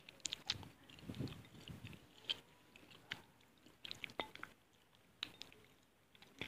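Close-miked chewing and wet mouth sounds of someone eating mie goreng fried noodles, with scattered short clicks and smacks.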